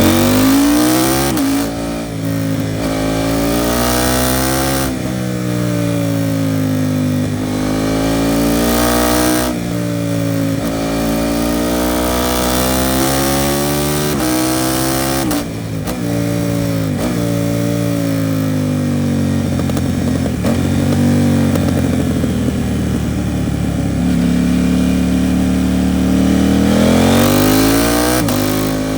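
KTM 790 Duke's parallel-twin engine through an Arrow Pro Race titanium exhaust, accelerating hard, its pitch climbing and then dropping sharply at each gear change, several times over. After a short spell of quick drops in pitch, the engine runs more steadily for several seconds, then revs up again near the end.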